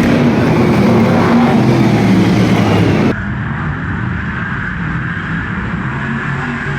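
V8 stock car engines running hard on track. About three seconds in the sound cuts abruptly to a quieter, duller engine sound, as from a different recording.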